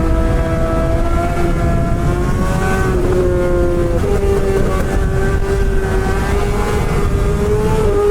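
Suzuki GSX-R600's inline-four running at high revs through a straight-piped M4 exhaust with no catalytic converter, its pitch slowly climbing with a step about four seconds in, over wind rumble on the rider's microphone.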